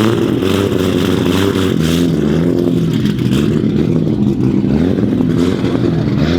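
Straight-piped, single-turbo 2JZ inline-six of a heavily modified Toyota Supra MK4 running at a loud, uneven idle, its pitch wavering up and down with light throttle.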